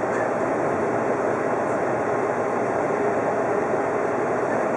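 Odakyu 50000-series VSE Romancecar express train running along the line, a steady, even running noise heard from inside the front car.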